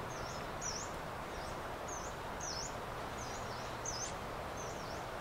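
A small bird calling over and over, short high chirps that dip and rise again, a little under two a second, over a steady outdoor hiss.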